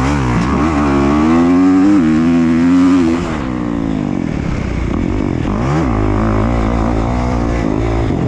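Dirt bike engines revving up and down in quick blips, the pitch rising and falling repeatedly; the sound changes abruptly about three seconds in.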